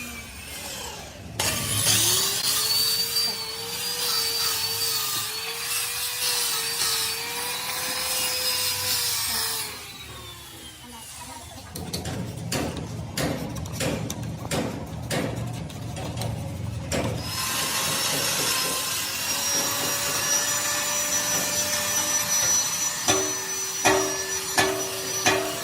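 A hand-held power tool working on a metal cylinder head: its motor spins up, runs steadily with grinding and rubbing, then winds down. Rough scraping with many clicks follows, then the tool runs again, and near the end come sharp, evenly spaced knocks on ringing metal.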